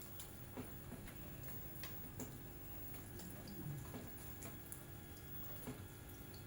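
Light, sharp clicks and ticks at uneven intervals, roughly one or two a second, over a faint steady hum.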